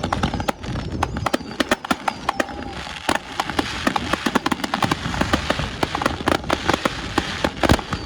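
Fireworks going off in quick succession: a dense run of sharp bangs and crackles, several a second, with a hissing spray building in the middle.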